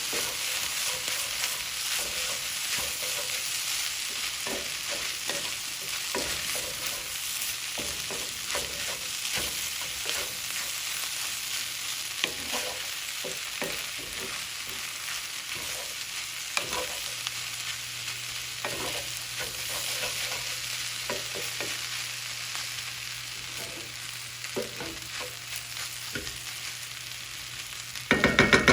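Fried rice sizzling in a hot cast iron pan while it is stirred and turned with a spatula, with irregular scrapes and taps against the pan over a steady hiss. Near the end a much louder sound cuts in.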